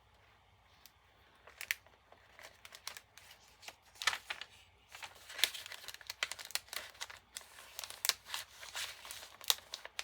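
Paper crinkling and rustling as the pages of a handmade junk journal of vintage papers are turned and handled, in irregular bursts that grow busier about four seconds in.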